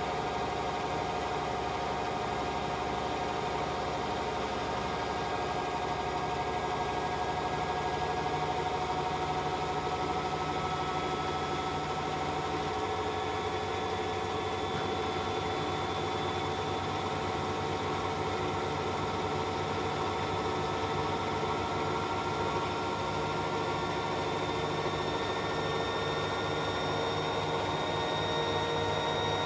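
Hoover H-Wash 600 integrated washing machine on its spin cycle, the motor and drum giving a steady whine that slowly rises in pitch as the drum speeds up.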